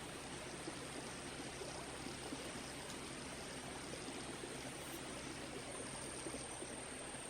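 Faint steady rush of running water, a stream flowing, with a thin high steady tone above it.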